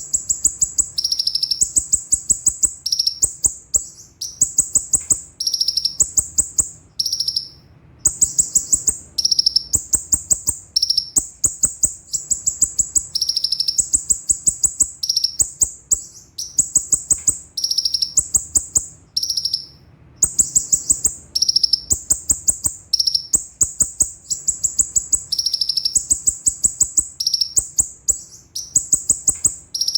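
Konin (kolibri ninja sunbird) singing sharp, rapid high-pitched trills: fast rolled strings of notes in bursts of about a second with brief pauses between, going on without a break in the pattern.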